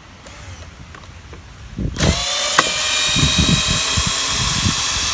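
A power drill starts about two seconds in and runs steadily at speed with a high whine.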